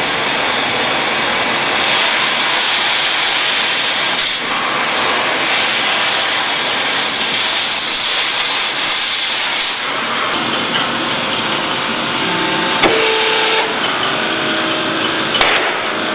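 Hydraulic power unit for a field chain riveter running with a steady loud hiss that shifts in strength a few times. Over the last few seconds it is joined by a few sharp metallic clicks.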